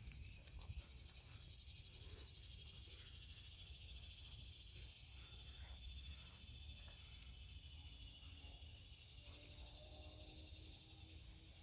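A steady, high-pitched chorus of insects trilling in summer vegetation, swelling after a couple of seconds and easing off near the end.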